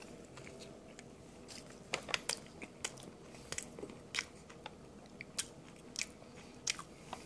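A person chewing a mouthful of a fast-food burger topped with French fries, heard close up: irregular wet clicks and smacks of the mouth, roughly two a second, beginning about two seconds in.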